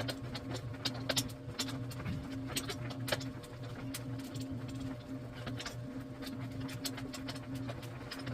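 Garage door pulley, cable and spring mechanism running: a steady low mechanical hum with irregular clicks and ticks throughout.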